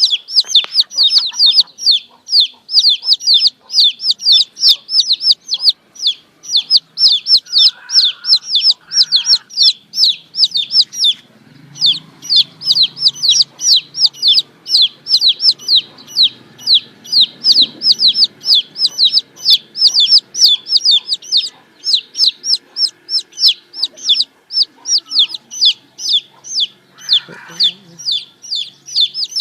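Baby chicks peeping nonstop, a rapid string of high peeps several a second, with a brief pause about eleven seconds in.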